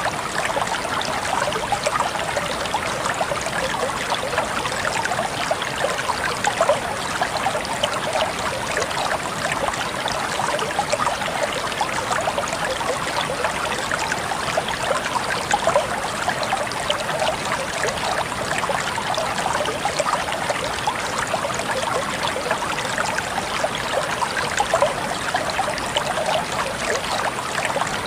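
Steady flowing water: a stream trickling and splashing with many small, quick splashes and no pauses.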